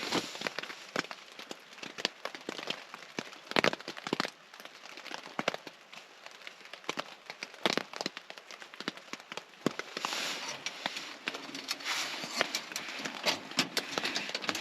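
Wood fire of small cut logs crackling in a titanium tent stove, with sharp, irregular pops; a steady hiss grows louder about ten seconds in.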